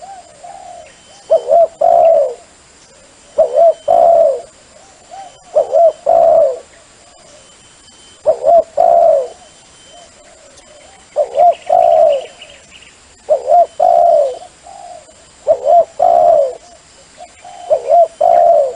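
Dove cooing, recorded for luring wild doves: a phrase of two short coos and a longer, falling coo, repeated evenly about every two seconds, eight times over.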